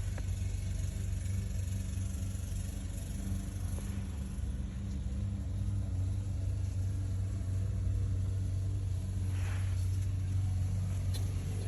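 Steady low hum, with a brief faint scrape about nine seconds in.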